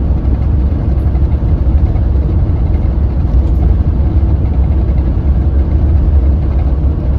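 Hyundai New Super Aero City CNG city bus engine running steadily with a deep, low drone, its pitch holding level.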